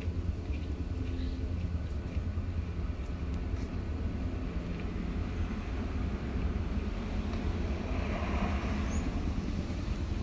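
Wind buffeting the microphone outdoors: a steady, gusty low rumble.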